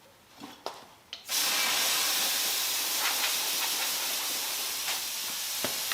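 Aerosol can of brake cleaner spraying in one long continuous hiss, starting after a few faint clicks about a second in.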